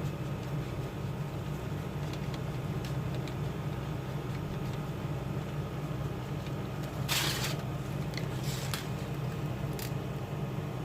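Steady low background hum, with a short scratchy rustle about seven seconds in and a couple of fainter ticks after it.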